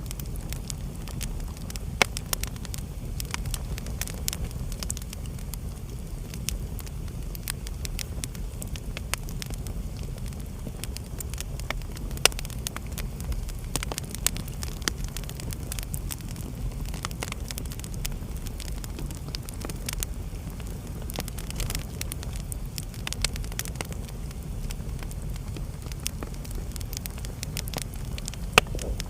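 Wood fire burning in a fireplace: a steady low rumble of flame with constant irregular crackling, and a few louder pops about two seconds in, near the middle and near the end.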